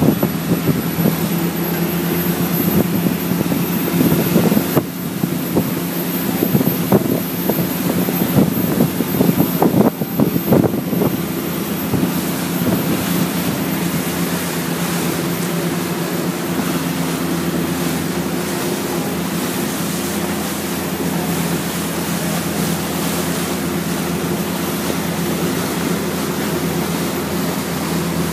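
Yanmar diesel inboard of a motor yacht running steadily at cruise, about 3,500 rpm after being throttled back from near wide open. Wind buffets the microphone for roughly the first ten seconds, after which the engine drone is steadier.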